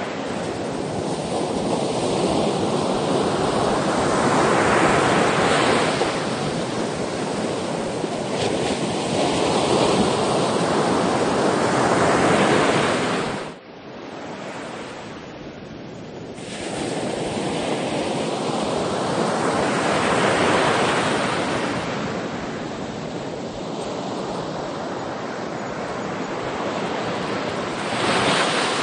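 Sea waves breaking and washing ashore, the surf swelling and fading every few seconds. About halfway through, the sound drops away suddenly for about three seconds, then comes back.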